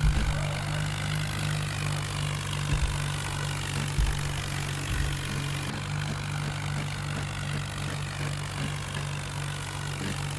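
Tractor diesel engine running at a steady speed, with a few short low thumps.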